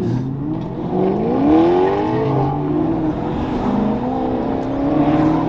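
Car engine accelerating hard, its note rising for about a second and then falling away as the car pulls off, with another rise in revs near the end.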